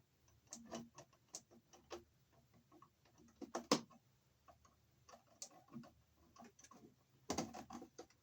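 Scattered light clicks and small knocks of electrical wires being handled in a junction box, irregular and unhurried, with a sharper click a little before halfway and a quick cluster of knocks near the end.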